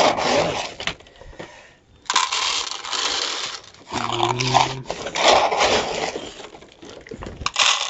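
Dogs making sounds while they are being fed, with bursts of rustling and scraping noise and a short low pitched sound about four seconds in.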